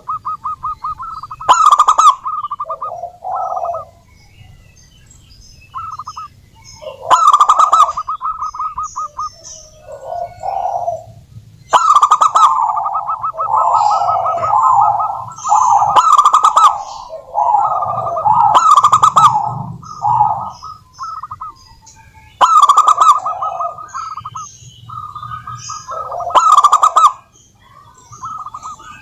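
Zebra doves (perkutut) singing: repeated phrases of rapid staccato cooing notes a few seconds long, with some phrases overlapping, as from more than one bird. Several notes are much louder and sharper than the rest.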